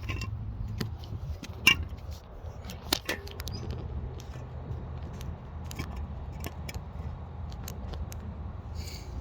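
Scattered sharp clicks and light rattles over a faint steady low rumble.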